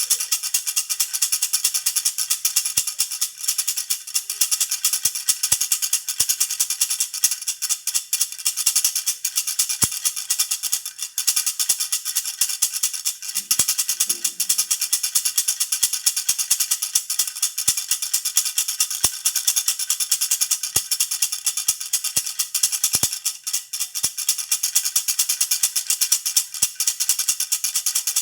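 Jhunjhuna (baby rattle) shaken steadily and rapidly, a continuous dense jingling rattle of many small clicks.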